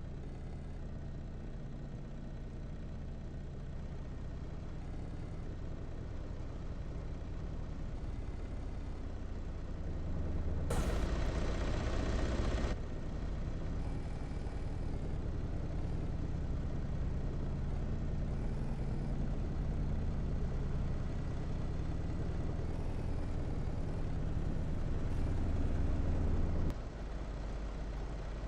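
Steady low rumble of a vehicle's engine and road noise, with a louder rushing surge lasting about two seconds near the middle.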